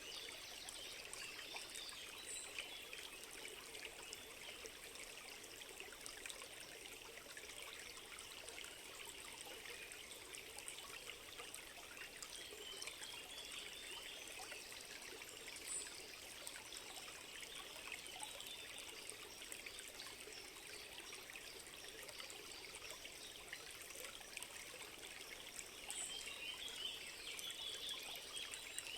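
A small stream trickling steadily over stones, a little fuller near the end.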